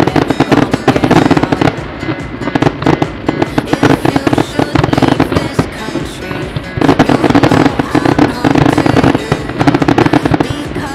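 Fireworks display: dense, rapid popping and crackling of firework bursts, easing briefly just before seven seconds in, then going dense again.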